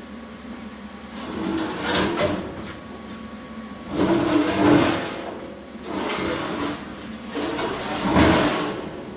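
Welded steel shelf being dragged and turned on the shop floor: four scraping, sliding swells, each a second or so long.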